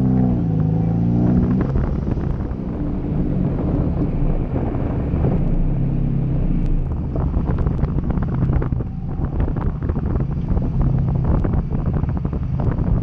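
A car's engine idling with a steady low rumble, heard from outside the driver's window. From about seven seconds in, irregular crackles sound over it.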